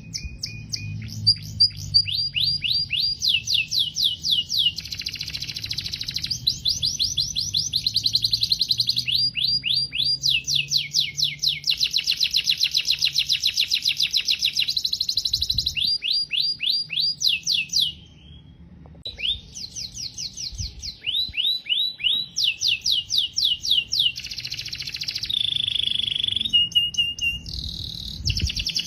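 Domestic canary singing: long runs of rapid, repeated down-slurred notes and trills, each run at a steady rate before switching to a new phrase, with a short pause about two-thirds of the way through.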